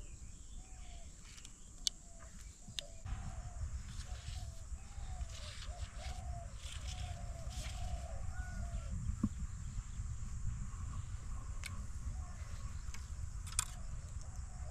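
A bird calling in short, repeated notes, about two a second, over a low steady rumble that starts about three seconds in, with a few sharp clicks.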